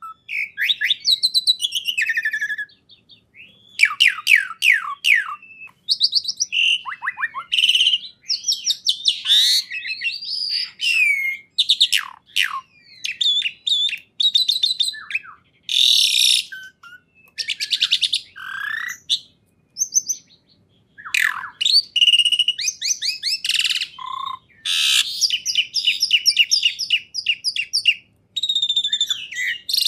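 A songbird singing a rapid, varied song of chirps, trills and quick downward-sweeping whistles, in phrases with brief pauses.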